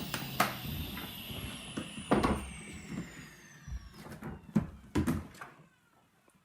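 A Henry canister vacuum cleaner switched off, its motor whine falling steadily in pitch as it spins down, with several sharp knocks and clunks of it being handled.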